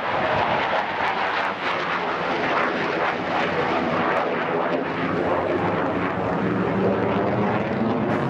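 Sukhoi fighter jet's engines making a steady jet noise as the aircraft flies.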